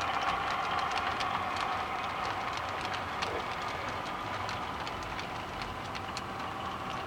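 HO scale model train running on the layout: a steady whir with small irregular clicks, several a second.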